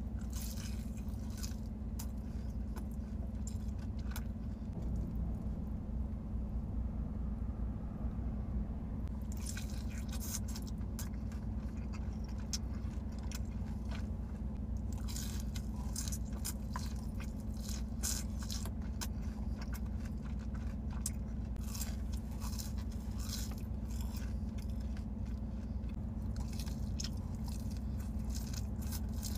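Close-up eating sounds: crunchy bites into crispy breaded fried chicken and chewing, with a run of short crackles that thins out for a few seconds before growing dense again, over a steady low hum.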